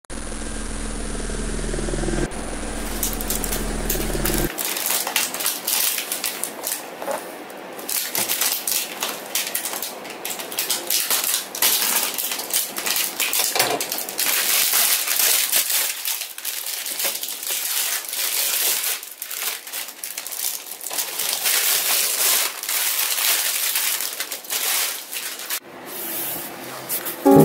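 Close-up handling sounds: irregular crinkling and rustling with many small sharp clicks. A low steady hum underneath stops about four seconds in.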